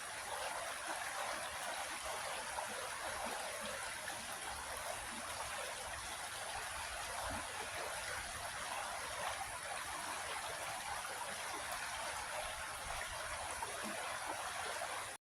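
Creek water flowing and trickling over rocks, a steady even rush that cuts off suddenly at the end.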